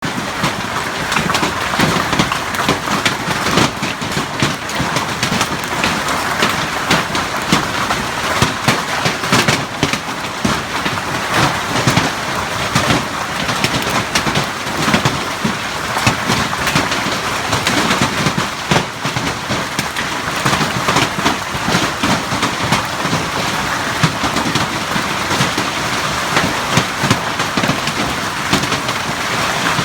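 Heavy hail hammering down: a dense, continuous clatter of countless hailstones striking roofs and the ground.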